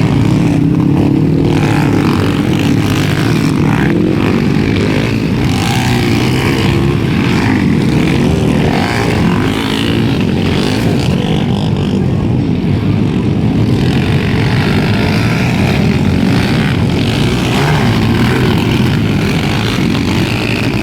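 Several underbone motorcycle engines racing, their pitch rising and falling as the riders work the throttle.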